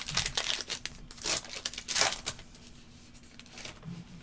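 Trading card pack wrapper being torn open and crinkled: a quick series of short rips and rustles in the first two seconds or so, then fainter handling.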